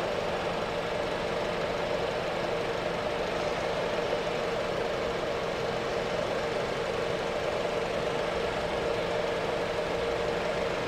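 A 2006 Honda Element's 2.4-litre four-cylinder engine idling steadily with the air conditioning switched on, during an R134a refrigerant recharge. A steady hum with a constant tone runs through it.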